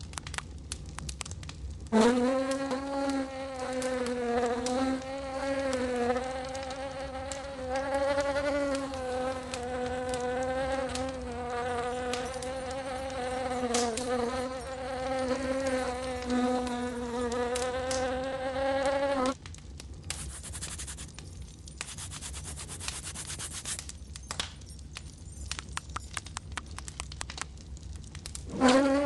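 Fly buzzing in flight, a wavering pitched drone that starts about two seconds in and cuts off suddenly some seventeen seconds later. Faint scratchy clicks follow, and the buzzing starts again at the very end.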